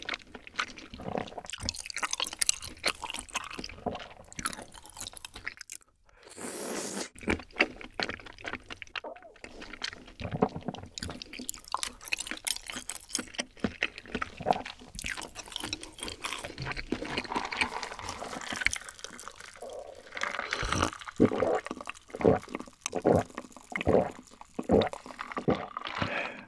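Close-miked mouth sounds of eating creamy rosé tteokbokki: wet chewing, squishing and lip smacks, turning into steady rhythmic chewing in the last few seconds.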